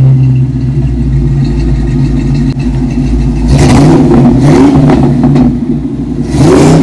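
A 1990s SN95 Ford Mustang's engine running at idle with a steady exhaust note, revved up twice: once about halfway through and again near the end.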